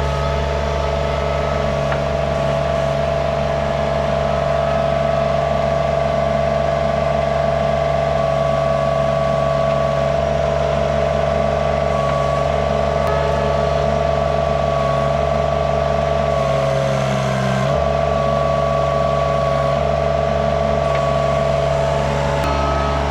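KRT ST900HD mini skid steer's engine running steadily, its pitch wavering briefly about three-quarters of the way through.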